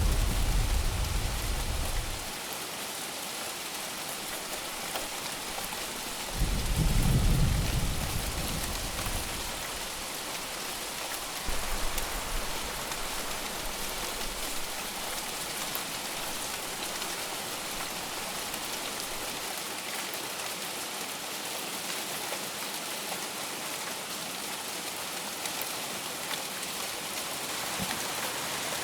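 Steady heavy rain falling. Low rumbles of thunder swell at the start and again about six to nine seconds in, with a weaker one soon after.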